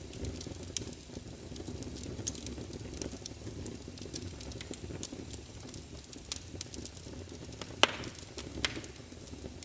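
Wood fire in a fireplace crackling, a steady low rumble under frequent sharp crackles, with a louder pop about eight seconds in and another a moment later.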